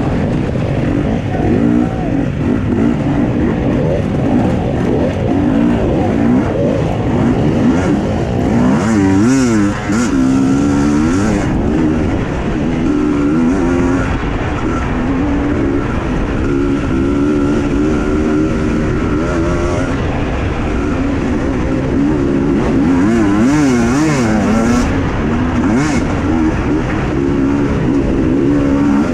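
Husqvarna TE 250i single-cylinder two-stroke enduro motorcycle engine under racing load, its revs rising and falling again and again as the throttle is worked, with sharp drops and climbs in pitch about ten seconds in and again near the end.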